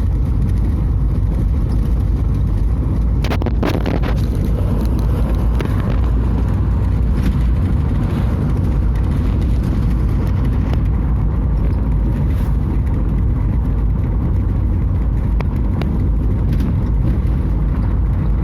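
Car driving along a road: a steady, loud low rumble of engine and tyre noise, with a few short knocks about three and a half seconds in.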